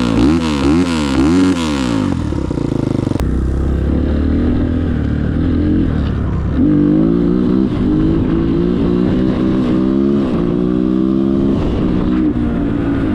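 Enduro motorcycle engine blipped up and down several times in quick succession, then settling to a steady idle for a few seconds before running at higher revs that rise and fall.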